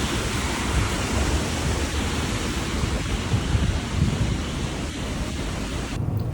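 Heavy rain pouring steadily: a dense, even hiss with a low rumble underneath. It cuts off abruptly near the end.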